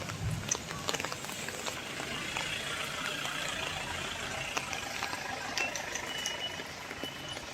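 Steady rain falling, an even hiss with many scattered drop ticks. A few short high tones come in over it in the second half.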